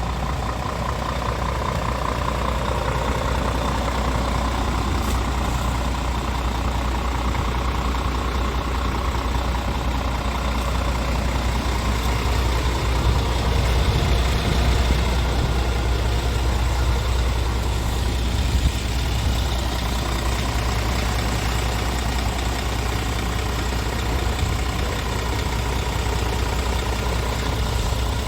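Scania R tractor unit's diesel engine idling steadily, a low even hum.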